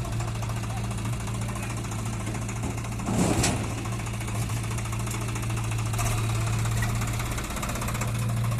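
Heavy diesel engine running at a steady idle-like speed, with a brief louder burst of noise about three seconds in and a fainter one about six seconds in.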